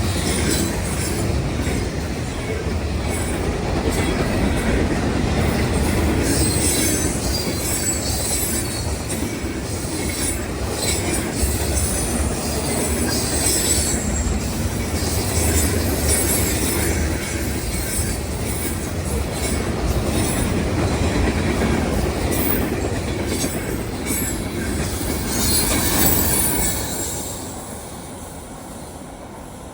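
Norfolk Southern freight train rolling past: a steady rumble of steel wheels on rail with clacking and high wheel squeals. The sound drops off sharply near the end.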